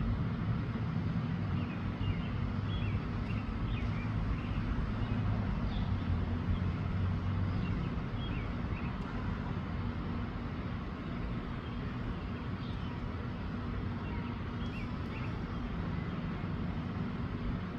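Wind buffeting the microphone, a steady fluttering low rumble, with small bird chirps scattered through the first half.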